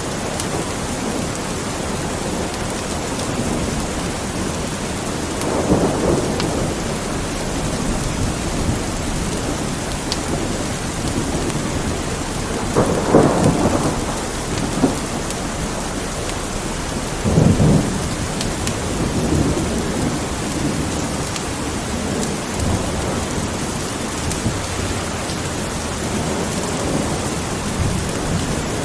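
Steady rain with rumbles of thunder swelling about six, thirteen and seventeen seconds in, over scattered small crackles of a fireplace.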